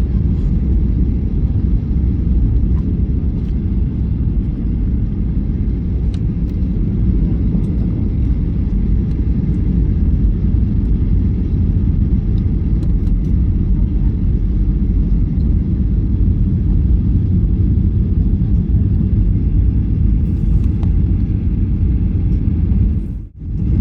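Steady low rumble of a Boeing 737-800's passenger cabin, heard from a seat: engine and airflow noise. It drops out abruptly for a moment near the end.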